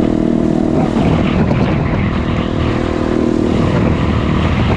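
Small single-cylinder pit bike engine running, holding a steady pitch with little change in revs.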